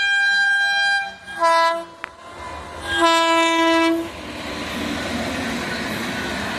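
Locomotive horn of the overtaking Secunderabad–Hazrat Nizamuddin Duronto Express: a held blast ending about a second in, a short blast, then a second long blast about three seconds in, followed by the steady rushing rumble of the train running past.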